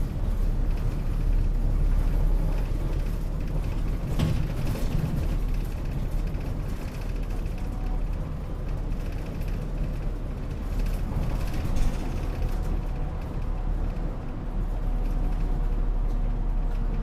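City bus under way, heard from inside the cabin: a steady low engine and road rumble, with a brief knock about four seconds in.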